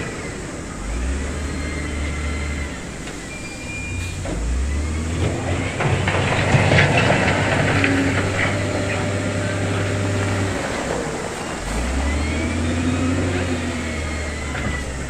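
Heavy construction machinery's diesel engine revving up and dropping back several times, with a louder stretch of rumbling and clattering in the middle, typical of stone being pushed or dumped.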